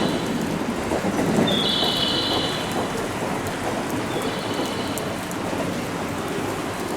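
Railway station platform sound: a steady rushing noise with a high electronic tone that sounds for about a second, repeats about every two and a half seconds, and fades each time.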